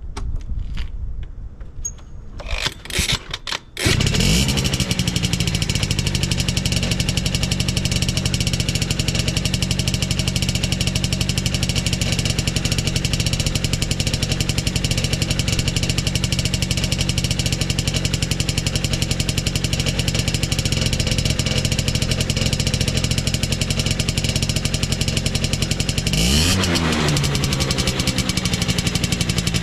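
Two-stroke motorcycle engine breathing through a vintage HI-R Hurricane expansion-chamber exhaust, cold-started: a few short cranking attempts, then it catches about four seconds in and idles steadily, with one brief rev near the end. It starts easily with no abnormal noise.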